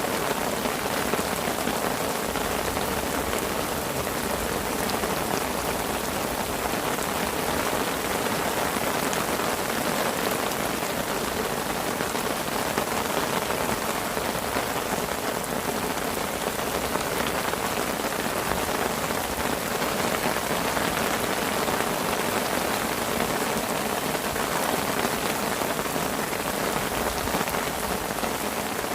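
Heavy rain falling steadily on a fishing parasol, a dense, even patter of drops.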